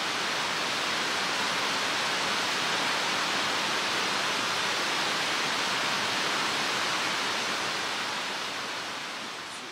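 Mountain stream rushing over rocks: a steady, even wash of water that fades out near the end.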